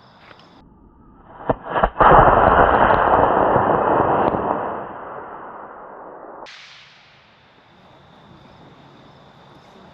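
A model rocket's D20 motor ignites and launches: two sharp pops about a second and a half in, then a loud rushing hiss of the motor burn that lasts about three seconds and fades away as the rocket climbs.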